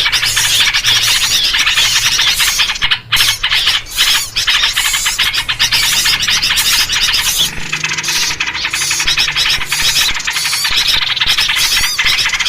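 Dense, continuous chatter of many small birds, a noisy bird-lure recording featuring yellow-vented bulbuls (trucuk), with rapid overlapping squeaky chirps.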